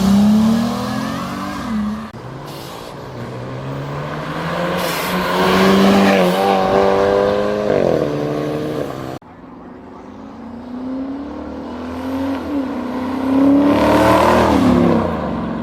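Cars accelerating hard away one after another, engine pitch climbing and dropping back at each gear change. The sound drops off abruptly about nine seconds in, then another car revs up and pulls away.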